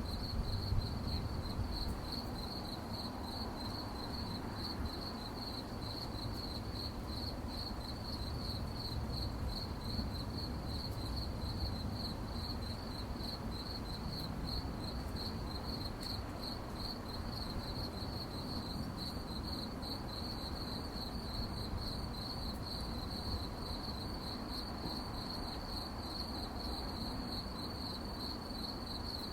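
Crickets chirping in a steady, evenly pulsing high chorus over a low background rumble.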